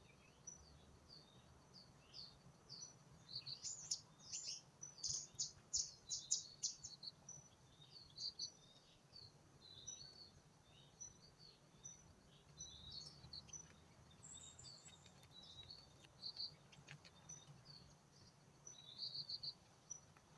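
Small birds chirping in many short, high calls, busiest a few seconds in and again near the end, over a faint steady high insect whine.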